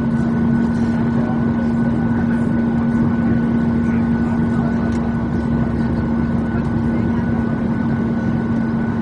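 Steady engine and airflow noise in the passenger cabin of a Boeing 737-800, with a constant low hum and a faint higher whine running through it.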